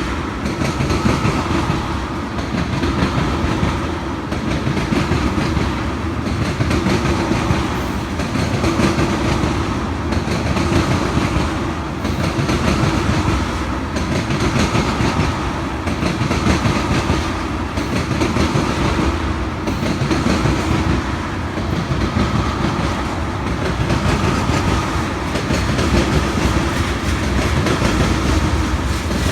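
Train cars rolling past close by, their wheels clicking over the rail joints, the sound swelling and easing about every two seconds as car after car goes by.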